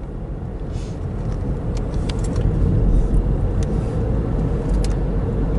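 Car running, heard from inside the cabin: a steady low rumble of engine and road noise, with a few light clicks.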